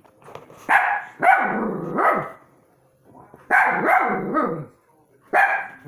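Dogs barking in short runs: three loud barks about a second in, three more about three and a half seconds in, and a single bark near the end.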